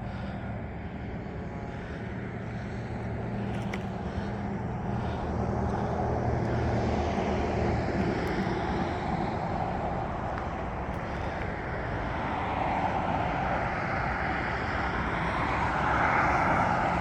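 Road traffic: continuous engine and tyre noise of passing vehicles, swelling twice as vehicles go by.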